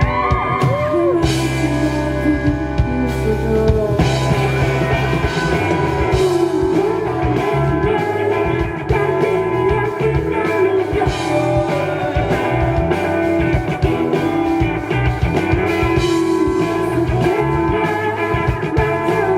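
Live rock band playing loudly, led by electric guitar with bent notes over bass and drums.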